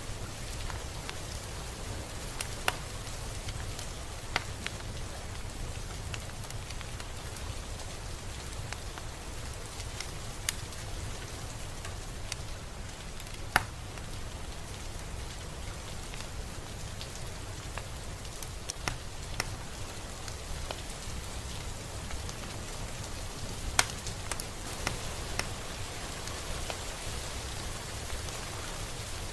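Steady rain falling, an even hiss with a low rumble beneath it, and every few seconds a single drop tapping sharply on a surface close by.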